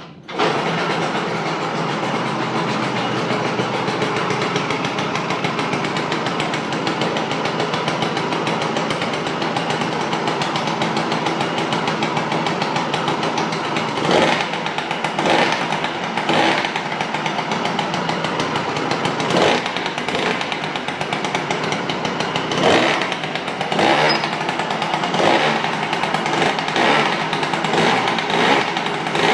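SYM Jet 100 scooter engine running through a JCC aftermarket exhaust: it catches just after the start and idles steadily, then from about halfway through the throttle is blipped in short revs every second or two.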